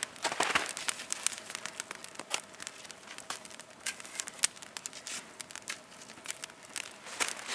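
Campfire of freshly added small twigs crackling as it catches, with many irregular sharp snaps and pops.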